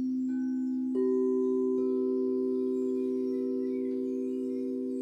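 Several singing bowls ringing together in long, steady, overlapping tones. A new bowl comes in near the start and another, louder one about a second in, and the ringing then slowly fades.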